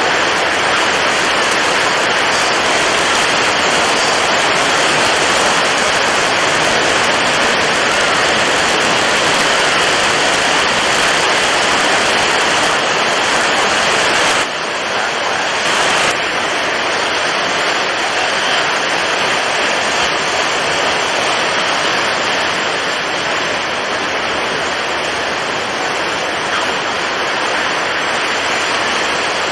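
Storm at sea: strong wind and heavy waves making a steady, dense roar, a little duller from about halfway through.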